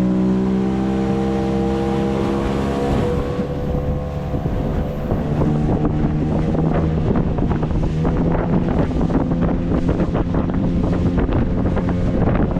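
A small boat's motor running at a steady pitch, with wind buffeting the microphone and growing rougher and crackly from about three seconds in.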